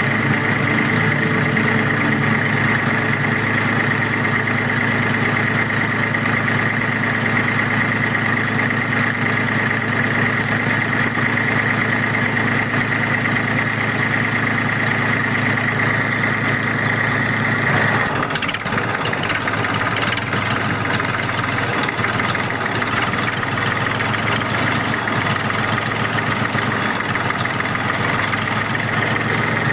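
A mini tractor's motor running steadily: a low hum with a constant high whine over it. About eighteen seconds in the whine drops away and the sound turns rougher and more uneven, and the whine returns near the end.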